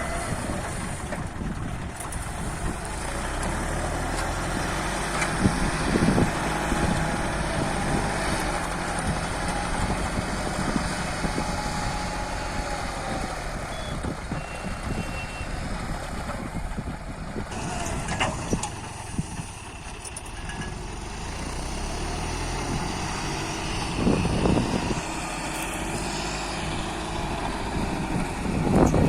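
Tractor engine running steadily, with a few brief knocks over it.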